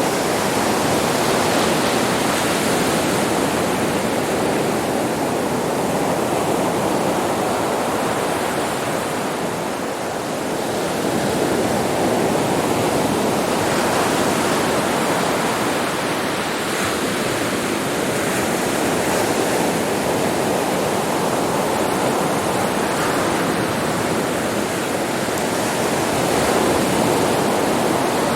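Sea waves breaking and washing on a beach, a continuous surf noise that swells and eases gently, with a slight lull about ten seconds in.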